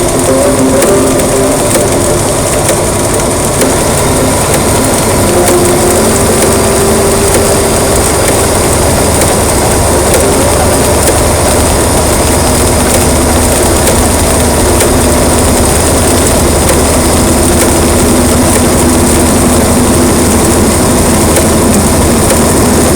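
Heavy rain coming down steadily, a loud even rushing, with a few faint held tones underneath.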